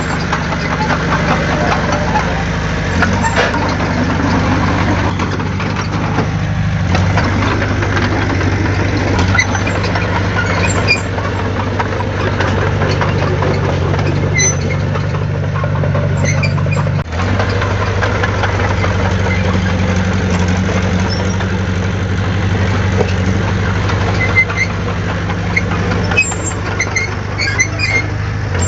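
Heavy diesel engine of earth-moving machinery running steadily, its note shifting up and down several times, with scattered short high squeaks.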